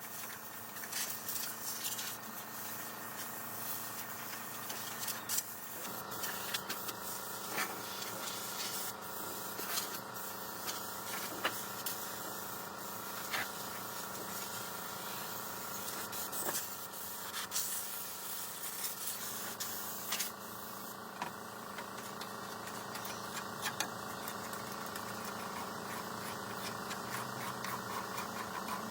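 A motor-driven workshop machine running steadily with a humming tone, scattered with sharp clicks and taps. The hum changes pitch and strength about six seconds in and again near twenty seconds.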